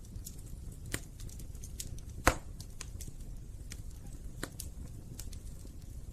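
Wood fire crackling in a fireplace: scattered sharp snaps and pops over a low steady rumble, with one loud pop a little over two seconds in.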